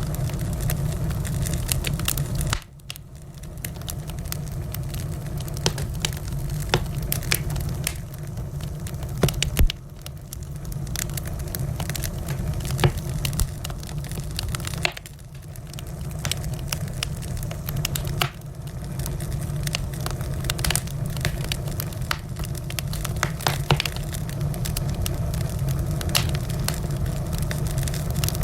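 Wood fire burning in a fireplace: a steady low rush with frequent sharp crackles and pops from the burning wood. The low rush drops away briefly three times and swells back each time.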